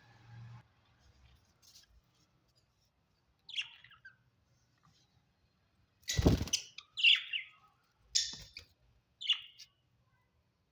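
Pet budgerigars giving short chirps: a few separate calls, mostly in the second half. About six seconds in there is a loud thump.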